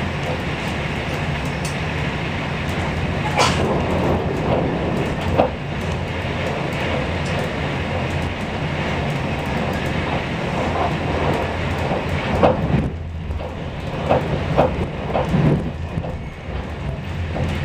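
Passenger train running along the line, heard from inside the carriage: a steady rumble of wheels on rails, with a few short, sharp clicks and knocks scattered through it.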